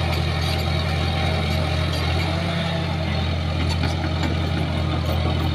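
Shantui bulldozer's diesel engine running at a steady speed, a constant low drone.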